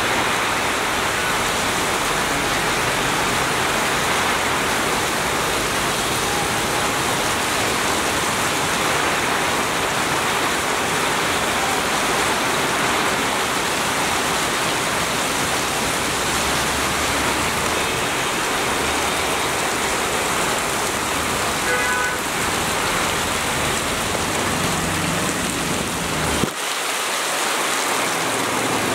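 Heavy rain pouring steadily onto a street and standing water, a dense even hiss. Underneath it runs the low hum of slow-moving traffic, auto-rickshaws among it, which swells in the second half. Near the end the low hum briefly drops out.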